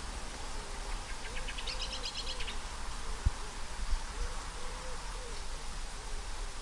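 Steady rain falling on foliage, with a bird's quick trill of high notes climbing in pitch about a second in and a low hooting call repeating in short groups of three. Two dull thumps stand out in the middle.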